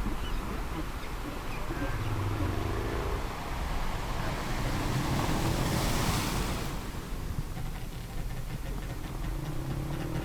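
Sea ambience: a steady low rumble of water, with a wave surging and washing through about halfway, and faint drawn-out whale calls sliding in pitch.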